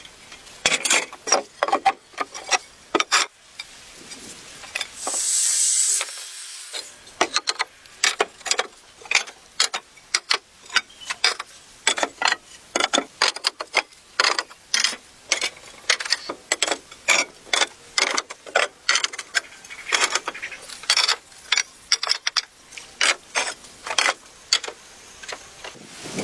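Irregular sharp knocks and clicks of wood and hand tools being handled in building work, about one or two a second, with a brief hiss about five seconds in.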